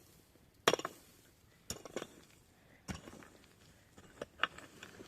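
A series of short, sharp clinks and knocks, five or so, about a second apart.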